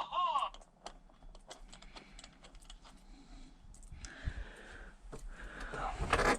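Light clicks and taps of small engine parts and tools being handled, with a short wavering whine right at the start and another pitched sound just before the end.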